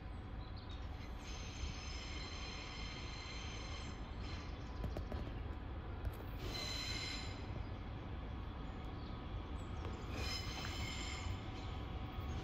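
Regional passenger train rolling slowly through the station: a steady low rumble, broken three times by brief high-pitched squeals, about a second in, about six seconds in and about ten seconds in.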